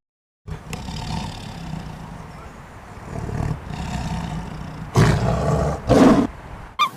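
A large wild animal growling low, then roaring loudly twice, about five and six seconds in.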